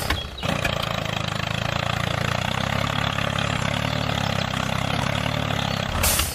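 Engine running steadily at idle with an even, rhythmic low chug. It drops out briefly just after the start and stops abruptly at the end.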